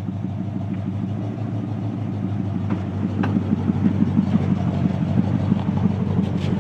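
1979 Chevrolet K10 pickup's engine idling just after a cold start, with a steady exhaust rumble that grows slightly louder and more pulsing about three seconds in.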